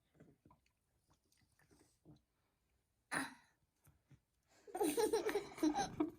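Faint chewing and mouth sounds from eating tangerines, a sudden short burst of breath about three seconds in, then people breaking into giggling laughter for the last second and a half.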